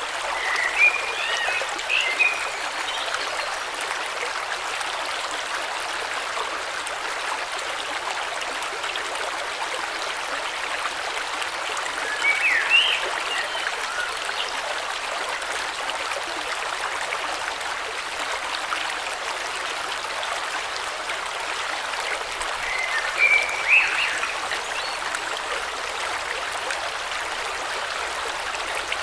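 A stream running steadily, its water noise constant throughout. Short chirping bird calls come three times, roughly ten seconds apart: just after the start, about twelve seconds in, and near the end.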